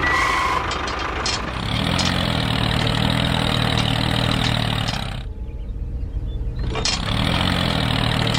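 Small engine running steadily. The sound thins out briefly a little past the middle, then picks up again.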